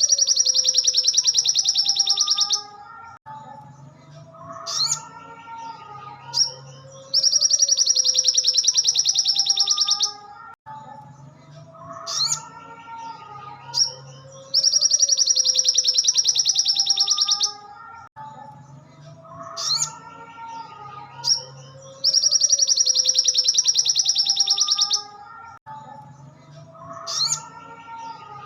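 Recorded song of a sogon (sogok ontong) bird, played as a loop: a long, very fast high trill of about three seconds alternates with lower warbled phrases and short chirps, the cycle repeating about every seven seconds.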